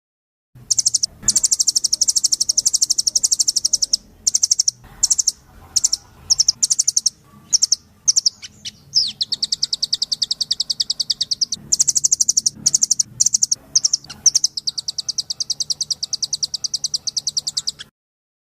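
Small songbird singing high, very rapid trills and chatter, delivered in phrases broken by short pauses; the recording starts about half a second in and cuts off abruptly near the end.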